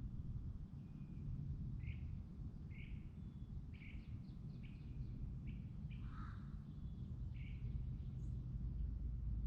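A small bird giving a string of short, evenly spaced chirps, about one a second for several seconds, with one lower call partway through, over a steady low rumble.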